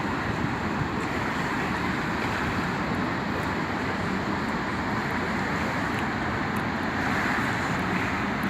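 Steady road noise of a moving vehicle, an even rush without breaks or changes in level.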